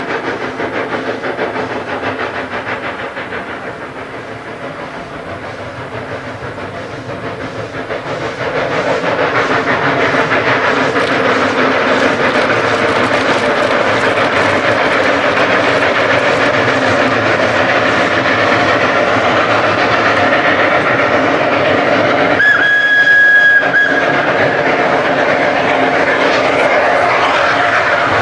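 A steam train running, with a steady rumble and clatter of the rails that grows louder about eight seconds in. About 22 seconds in, a short blast of the steam whistle sounds for a second or two.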